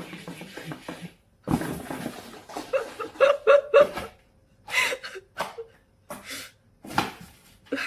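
A person laughing in several short bursts, with breathy sounds between them.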